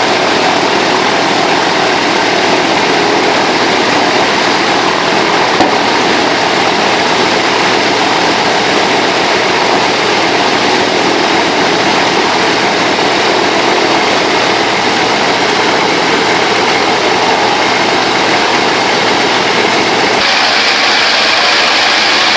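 An-2's ASh-62IR nine-cylinder radial engine and propeller running steadily during a ground run-up after long storage. About twenty seconds in the sound shifts: the deep part drops away and the higher part gets brighter. There is one sharp click a little after five seconds.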